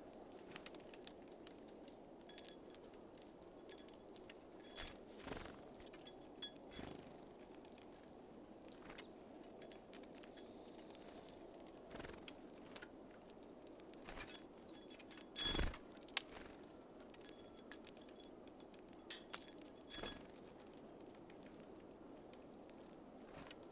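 Small birds at a feeder: scattered clicks and taps as they land, hop about and peck at seeds, the loudest tap about two-thirds of the way through, over a faint steady outdoor hiss.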